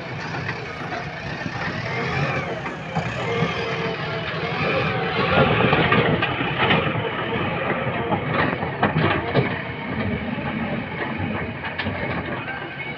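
Diesel engine of a JCB 3DX backhoe loader running steadily while it works, with a few short knocks.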